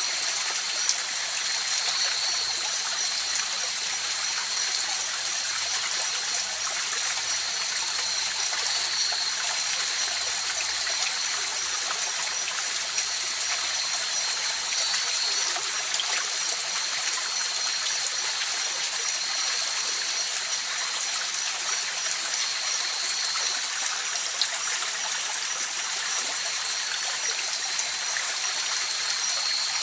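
River water flowing steadily over rocks: an even, unbroken rushing and trickling, with a thin, steady high-pitched tone over it.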